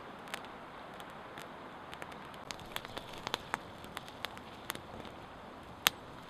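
Wood campfire crackling, with irregular small pops and one sharper pop near the end.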